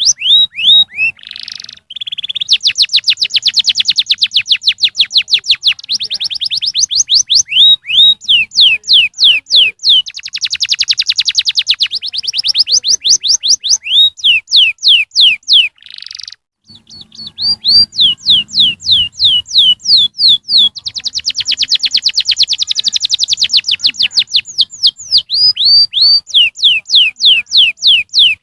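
Canary singing: long runs of rapid trills, very fast rolls alternating with slower series of down-slurred whistled notes, with a brief break about two-thirds of the way through.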